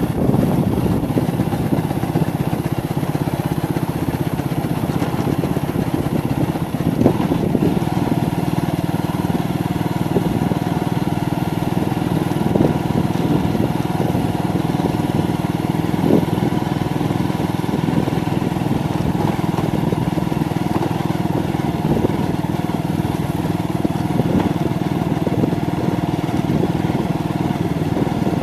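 Motorcycle engine running steadily while riding, with a few brief knocks about 7, 12 and 16 seconds in.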